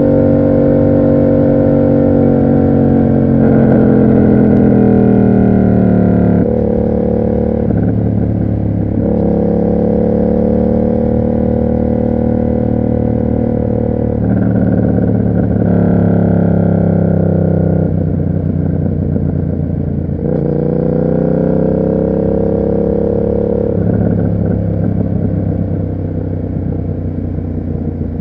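Yamaha MT-07's parallel-twin engine through an SC Project aftermarket exhaust, ridden on the road. The revs rise and fall, with sudden jumps in pitch every few seconds as it changes gear.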